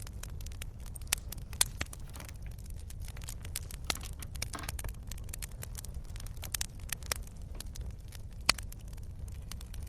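Wood fire crackling: irregular sharp pops and snaps over a steady low rumble, with a few louder pops standing out.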